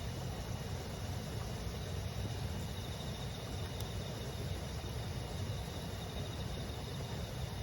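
Steady rush of a babbling river with autumn insects chirping continuously over it, and a single faint crackle of burning firewood about four seconds in.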